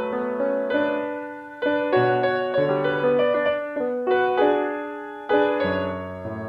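Background piano music: gentle chords struck about once a second and left to ring and fade.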